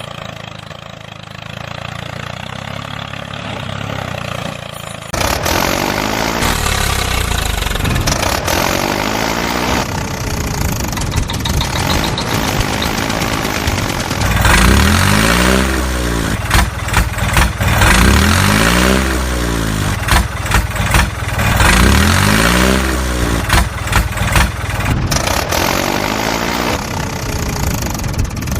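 A small motor running. It comes in louder a few seconds in, then past the middle its pitch rises and falls over and over in about five swells, as if speeding up and slowing under changing load.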